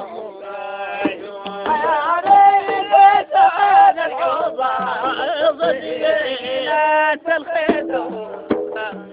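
Men singing an Arabic Sufi praise song (madih) in long, wavering held notes.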